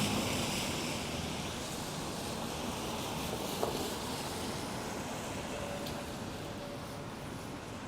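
City street traffic on wet roads: a steady hiss of car tyres and engines passing, with one short knock about three and a half seconds in.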